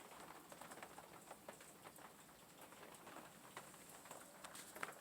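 Near silence, with faint scattered small ticks and taps.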